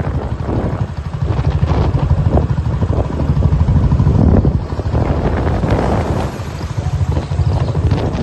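Rushing water of a waterfall, a loud steady rumble, with wind buffeting the microphone.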